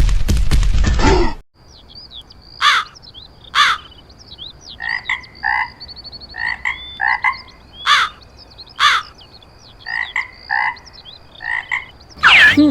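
A burst of rapid, loud bangs for about the first second, then a steady series of croaking animal calls, spaced about every half second to a second, with thin high chirps between them.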